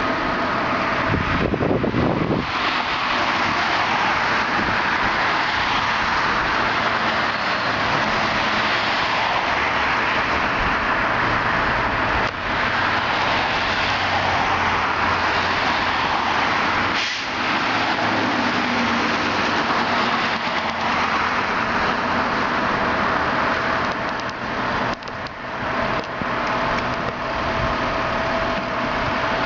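Fire engine on the move, a steady loud rush of engine and road noise.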